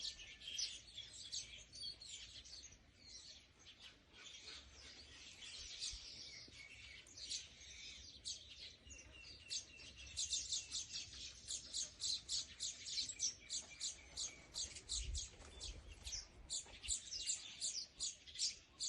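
Small birds chirping busily: a dense chatter of short, high chirps. From about ten seconds in, one bird gives sharp chirps in quick succession, about three or four a second.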